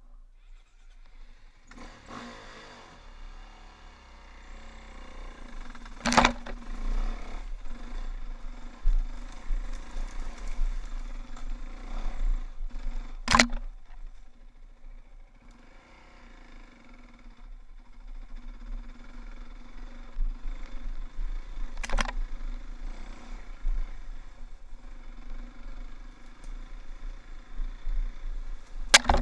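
Dirt bike engine running at low, steady trail-riding revs, picking up about two seconds in. Four sharp knocks cut through it.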